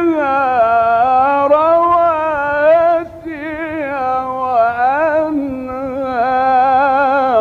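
A man's voice reciting the Quran in the drawn-out, melodic Egyptian tajweed style: long held notes with wavering ornaments, and a short break about three seconds in before the next phrase.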